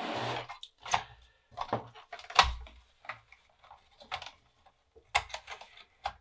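Irregular sharp clicks and knocks of floppy-drive parts and a cable connector being handled, with a brief scraping rustle at the start. The loudest knock comes about two and a half seconds in.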